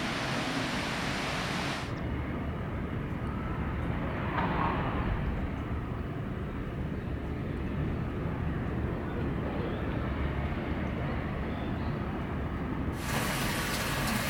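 Steady outdoor background noise with no distinct event. A full hiss cuts off abruptly about two seconds in, leaving a low rumble, and the hiss returns suddenly near the end.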